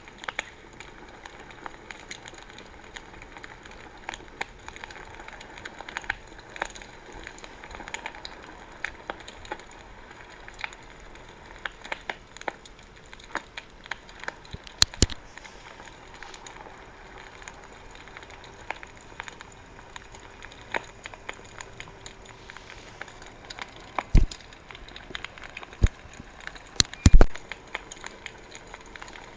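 Wood fire crackling, with irregular snaps and pops over a faint steady hiss. A few much louder pops come about halfway through and twice near the end.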